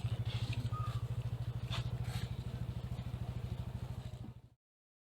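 Small motorcycle engine running steadily with an even, fast pulsing beat. It fades out about four and a half seconds in, and total silence follows.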